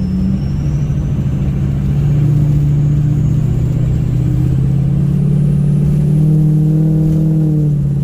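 Diesel pickup truck engine pulling steadily under load in first gear, a continuous low drone that swells slightly about two seconds in.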